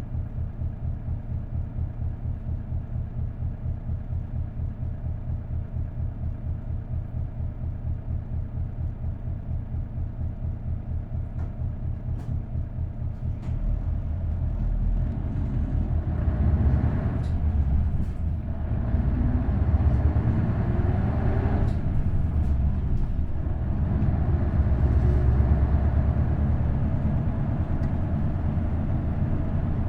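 Isuzu Erga bus's V8 diesel engine idling with an even throb, then, about 13 seconds in, revving up as the bus pulls away and accelerates through the gears of its five-speed manual, getting louder.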